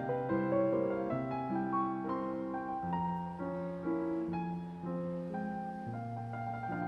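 Slow, gentle piano music: a melody of held notes over long bass notes that change every second or two.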